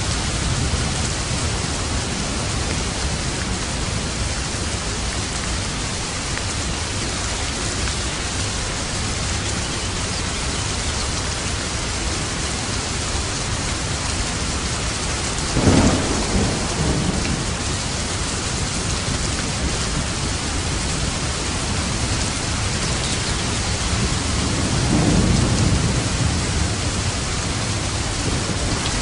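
Steady rain falling, with a sharp clap of thunder about halfway through and a rolling rumble of thunder a little later.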